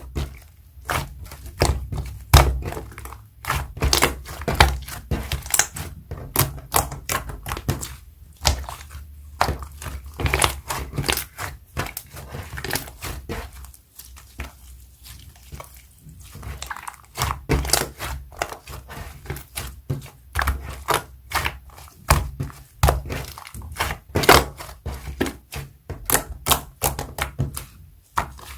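Slime being squeezed and pressed by hand, giving rapid, irregular sticky pops and clicks, with a couple of short lulls.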